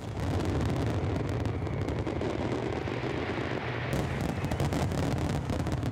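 Fireworks barrage: many aerial shells bursting at once, a dense continuous rumble of booms full of sharp crackles. It cuts in suddenly, and the crackling grows thicker about four seconds in.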